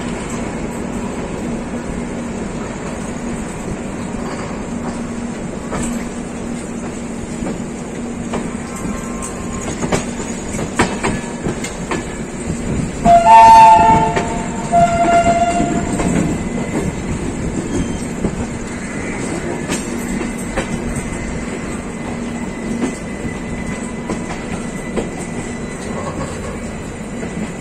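Rajdhani Express passenger coach running, heard from its open door: a steady rumble with wheels clattering over the rails. About 13 seconds in a train horn sounds twice, a short blast then a longer one. The horn is the loudest sound.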